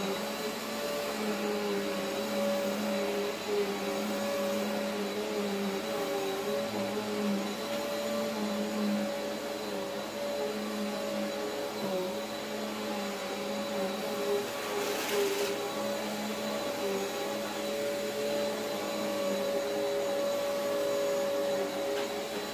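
Eureka AirSpeed Exact Pet vacuum cleaner running steadily on carpet, a continuous motor hum with several held tones over the rush of air. A short hiss comes about two-thirds of the way through.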